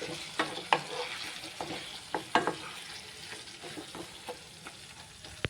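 Spoon stirring chicken curry in a pan over a soft sizzle, with sharp clicks of the spoon against the pan. The clicks come thickly for the first two and a half seconds, then thin out.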